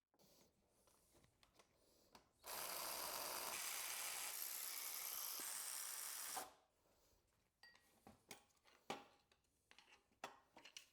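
A power tool runs steadily for about four seconds, driving out a bolt while the AC compressor is being unbolted from the engine. It is followed by scattered light clicks and knocks of tools and metal parts being handled.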